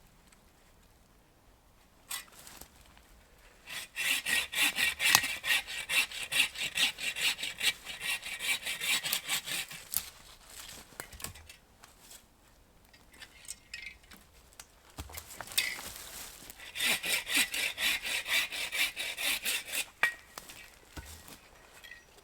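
Hand saw cutting through wood in two bouts of fast, even back-and-forth strokes, about three strokes a second, with a short pause between the bouts.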